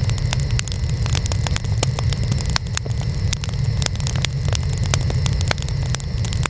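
Wood fire burning, with a steady low roar of flame and frequent irregular sharp crackles and pops from the burning wood, several a second.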